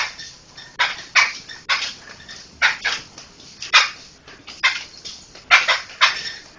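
Poksay (a laughingthrush) giving a run of about a dozen short, harsh, rasping calls, unevenly spaced at roughly two a second.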